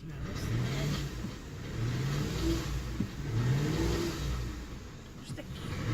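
The 2002 Ford Explorer's V8 engine running under way with a steady low rumble, its pitch rising and falling back about three times as it revs. The engine has very little power, a fault the owner has not diagnosed.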